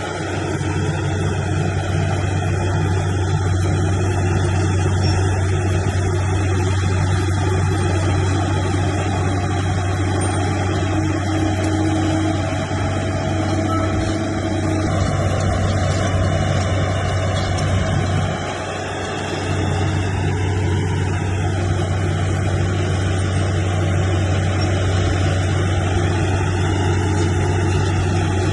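Heavy diesel engine of earthmoving machinery running steadily under load with a deep, even hum; it drops briefly about two-thirds of the way through, then picks back up.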